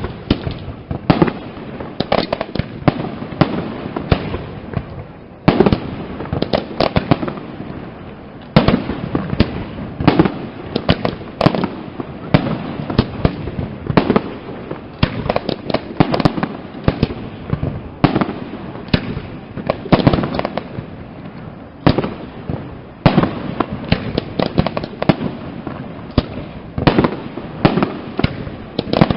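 Aerial fireworks display (castillo de fuegos artificiales): a dense, near-continuous barrage of shell bursts and sharp bangs, several a second, over a rolling rumble, with a few brief lulls.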